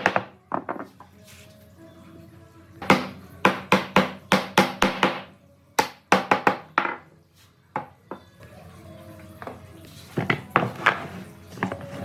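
Groups of sharp knocks in quick succession, several strikes a second, from work on the wood slab, with soft background music underneath.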